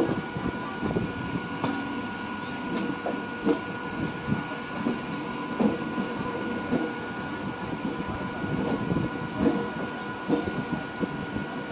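A train running past on the track, its wheels knocking irregularly over the rails under a steady rumble, with a thin steady whine above.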